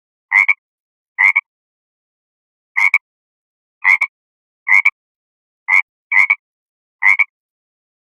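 Frog croaking: eight short, rasping calls, each a quick double pulse, repeated roughly once a second with silence between.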